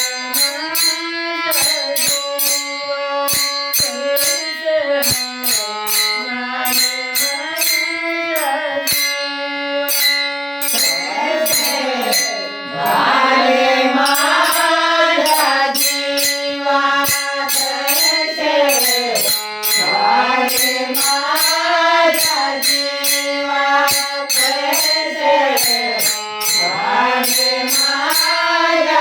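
A woman singing a Marathi song, holding long notes that slide up and down, over a steady beat of sharp clicking percussion.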